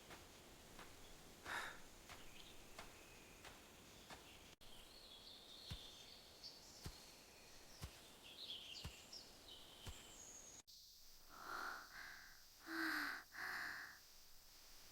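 Faint forest ambience with birds chirping in short high twitters, broken by a few soft ticks. Near the end come three louder short calls.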